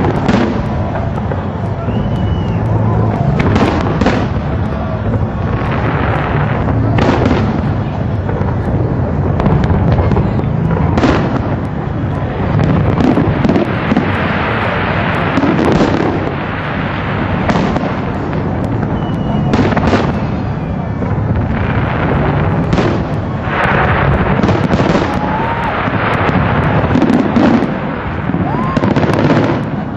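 Fireworks display: aerial shells bursting one after another, sharp bangs every second or two over a continuous rumble and crackle.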